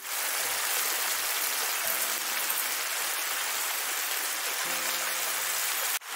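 Ground masala frying in oil in a kadhai, a steady fine hiss.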